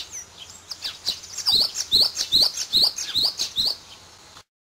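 Bird chirping, building to a run of quick rising chirps about two a second, then cutting off suddenly near the end.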